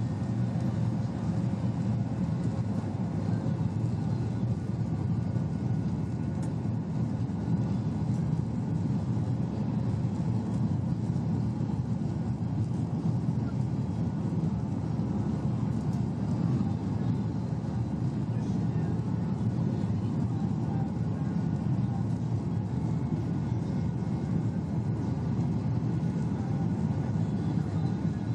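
Steady cabin drone inside a Boeing 737-800 with CFM56-7B engines: an even, deep rush of engine and airflow noise that holds constant, with a faint steady whine higher up.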